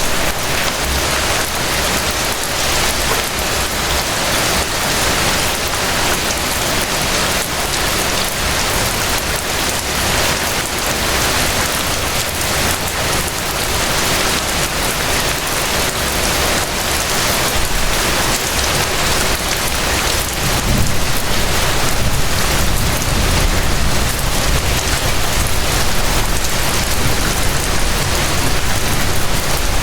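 Steady rain falling, an even hiss of many drops. A low rumble comes in about two-thirds of the way through.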